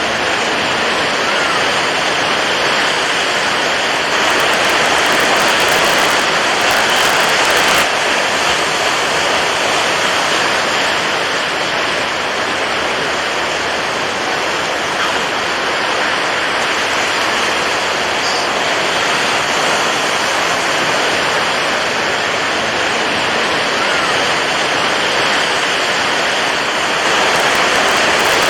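Water waves in a steady, dense rush of water noise, swelling slightly a few seconds in and again near the end.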